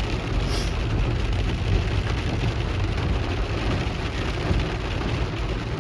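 A car driving in heavy rain, heard from inside the cabin: a steady low rumble of engine and road with the hiss and patter of rain on the car.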